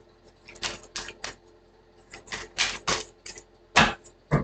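Irregular run of sharp clicks and taps, a few a second, with two louder knocks near the end.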